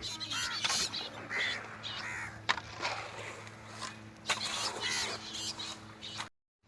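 Crows cawing several times over a faint steady low hum; the sound cuts out briefly near the end.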